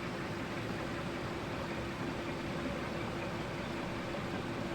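Steady mechanical hum and hiss of workshop background noise, with a faint constant tone and no distinct events.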